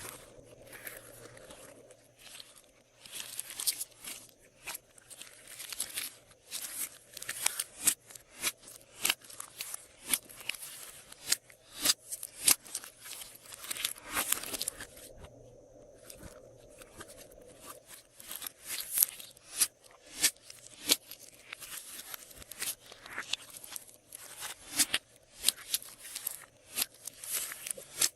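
Slime being squished and stretched by hand, giving an irregular stream of sharp crackling pops and clicks, several a second.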